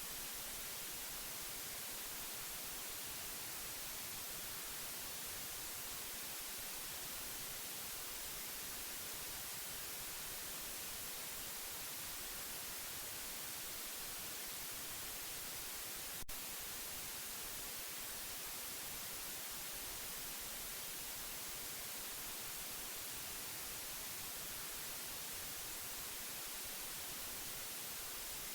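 Steady white noise: an even, unbroken hiss strongest in the treble, played as a baby-sleep sound. A single sharp click sounds about halfway through.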